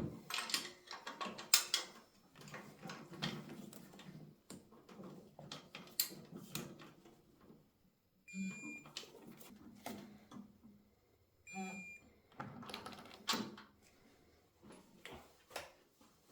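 Tools and metal parts being handled on a motorcycle workbench: an irregular run of clicks, clinks and knocks, with two short beeps about eight and eleven and a half seconds in.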